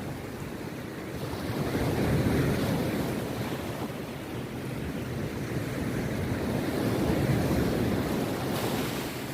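Rough sea waves breaking and washing on a beach, the surf swelling twice, about two seconds in and again about seven seconds in.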